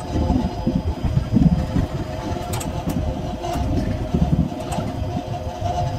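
Passenger train with old ICF coaches moving off: a low, uneven rumble of the running coaches over a steady hum, with a few sharp clicks and clanks in the middle.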